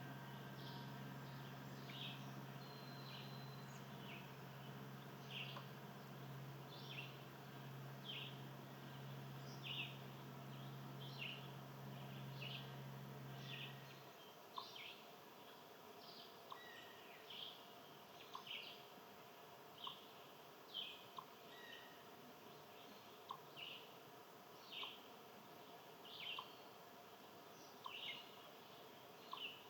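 A bird chirping the same short, sharp call over and over, roughly once a second. A steady low hum runs underneath and cuts off suddenly about halfway through.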